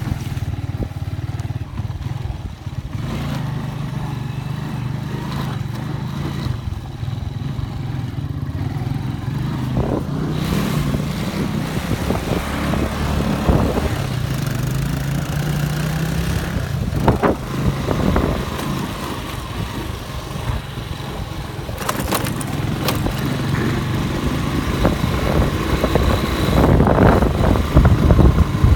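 Rain in wind, with a steady low rumble of wind buffeting the microphone; the hiss of the rain grows stronger about a third of the way in, with a few sharp knocks later on.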